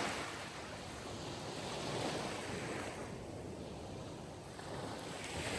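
Sea surf: waves washing in with a steady rush, swelling slightly about two seconds in and again near the end.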